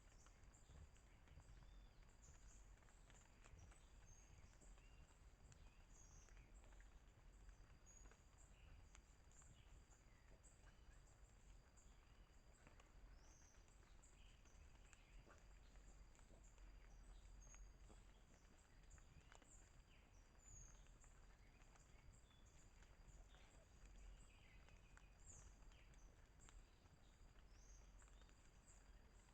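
Near silence: faint outdoor ambience with many small, scattered high chirps and ticks over a thin, steady high tone.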